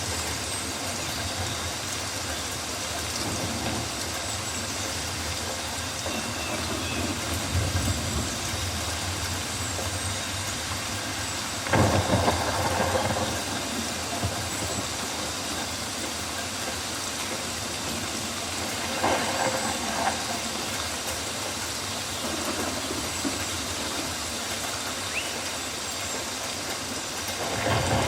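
Steady rain falling on rainforest foliage, an even wash of sound with three brief louder swells spread through it.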